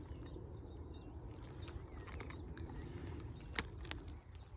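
Low outdoor rumble of wind on the microphone with a few faint bird chirps, and two sharp clicks about three and a half seconds in.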